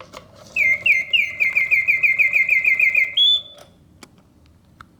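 Vintage Reuge singing bird cage's bellows-driven whistle sounding a rapid trill of quick falling chirps, about five a second, ending on a short higher held note. The song stops about three and a half seconds in, leaving only a couple of faint clicks from the mechanism.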